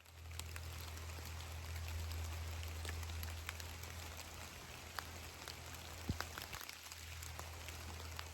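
Rain falling in woodland, with scattered individual drops ticking sharply, one louder than the rest about six seconds in. A steady low rumble runs underneath.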